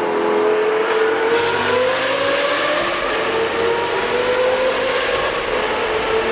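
Straight-piped Lamborghini Gallardo Superleggera V10 accelerating hard, its exhaust note rising in pitch through a gear, dropping back at an upshift about three seconds in, then climbing again before levelling off. The note echoes off tunnel walls.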